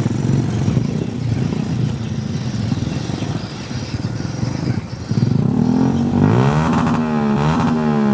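Mitsubishi Canter truck's diesel engine running under load at first. About five seconds in it turns louder and is revved, its pitch rising and falling several times as the truck labours through deep mud.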